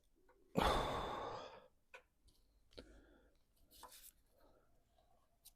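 A sudden breathy hiss lasting about a second and fading out, followed by a few light clicks and taps.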